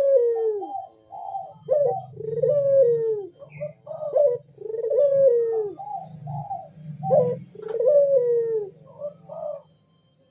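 Ringneck (Barbary) dove, the 'burung puter', cooing in its deep calling song: about four phrases, each a short rising note followed by a long falling coo, with shorter coos in between.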